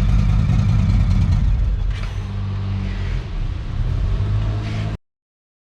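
2017 Indian Roadmaster's Thunder Stroke 111 V-twin running through a Freedom Performance aftermarket exhaust. It eases off a little about two seconds in, picks up again near the end, and cuts off abruptly about five seconds in.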